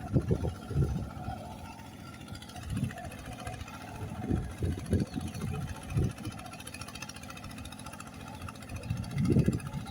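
Kubota RT140 single-cylinder diesel walk-behind tractor running steadily, with irregular gusts of wind buffeting the microphone.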